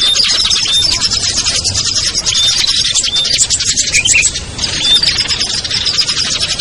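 Dense, rapid high-pitched chattering of many small songbirds at once, with short whistled notes cutting through and a brief lull about four and a half seconds in. It is a mixed small-bird lure call, played to draw wild birds down.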